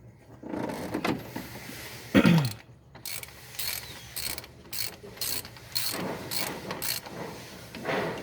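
Hand ratchet wrench clicking in repeated strokes, about two a second, with a short, loud falling sound about two seconds in.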